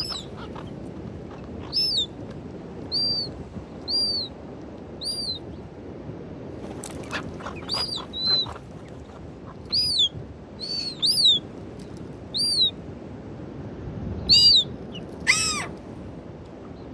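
Birds calling: short, high, arched chirps repeated about once a second, with one lower, falling call near the end.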